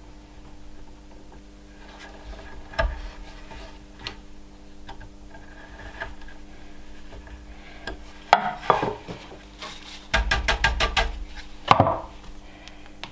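Hard objects being handled: scattered knocks and clatter of wood and hard material, with a quick rattling run of clicks about ten seconds in and a sharp knock just after.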